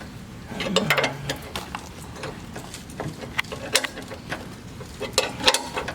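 Hand ratchet and wrench clicking and clinking in short irregular bursts on a control-arm bolt being broken loose.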